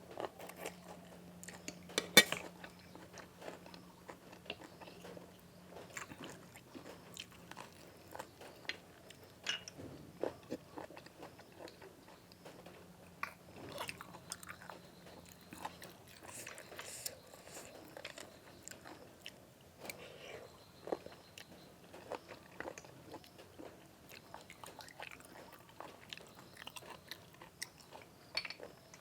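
A person chewing and biting crunchy food close to the microphone, with many irregular sharp crunches, the loudest about two seconds in. A faint low hum sits underneath for the first half.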